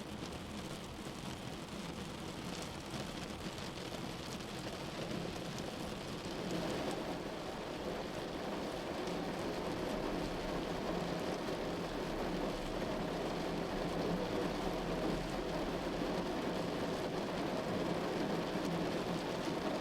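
Heavy rain drumming on a car's roof and windshield, heard from inside the moving car, growing heavier about six seconds in.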